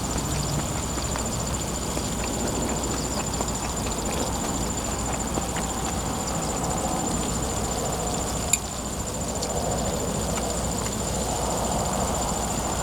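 A person chewing a mouthful of pork duruchigi wrapped in kimchi, with small wet clicks from the chewing and one sharp click about eight and a half seconds in. A steady high insect trill runs behind it.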